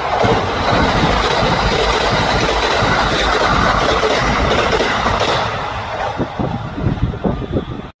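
Train running close by: a loud, even rush of wheel and rolling noise for about five seconds, easing off into a run of separate wheel clacks over rail joints. The sound cuts off suddenly near the end.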